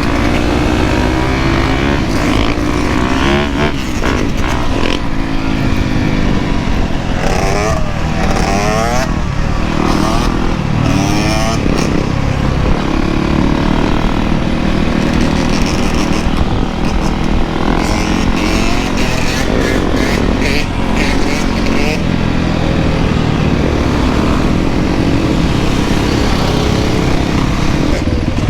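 Dirt bike engines running continuously. The revs rise and fall several times in the first half.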